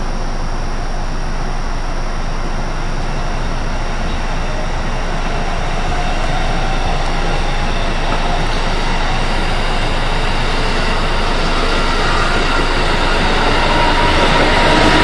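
Amtrak passenger train running past on the tracks: a steady rumble of coach wheels on rail that slowly grows louder toward the end as the train's trailing electric locomotive draws near.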